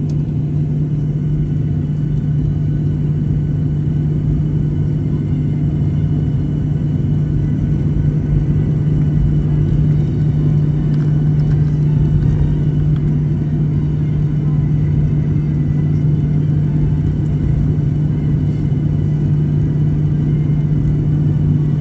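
A steady, loud low engine drone with a constant hum that does not change.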